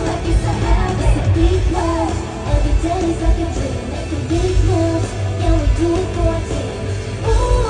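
Live pop concert music over an arena sound system: singing over a heavy bass beat.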